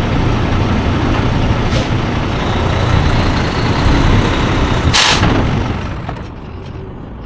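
Semi truck's diesel engine running with a steady low rumble, then a short sharp air-brake hiss about five seconds in, after which the engine noise falls to a quieter hum.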